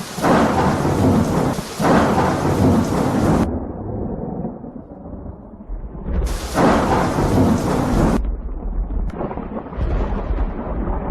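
Thunderstorm: rolling thunder rumbling low under rain. Two loud crashing stretches cut in and out abruptly, one lasting into the fourth second and one near the middle.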